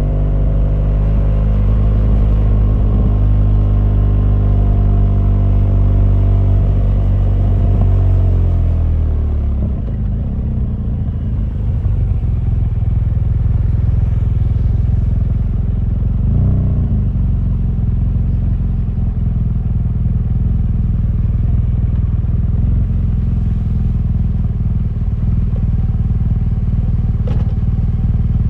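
BMW R1200GS boxer-twin motorcycle engine under way. The revs climb slowly, fall away about eight seconds in as the throttle closes, then the engine runs steadily at lower revs.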